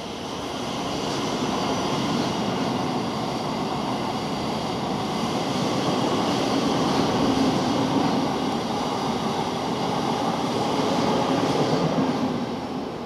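South Western Railway electric multiple unit passing close by: a steady rumble of wheels on rail with a few high steady tones over it, swelling over the first two seconds and dying away near the end.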